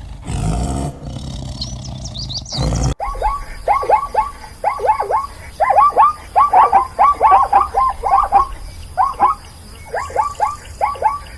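Wild animal sounds: a low roar for about three seconds, then, after a sudden cut, many short falling calls in quick clusters of three or four.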